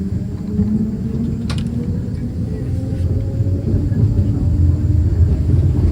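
A vehicle running with a heavy low rumble, a faint tone above it slowly rising in pitch as it gets louder.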